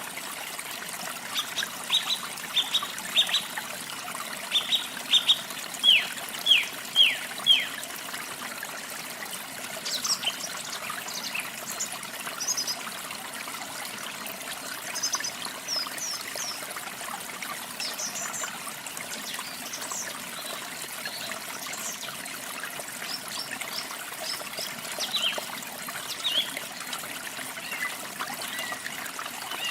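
Small birds chirping over a steady trickle of running water. A run of short, falling whistled notes a few seconds in is the loudest, followed by scattered higher chirps.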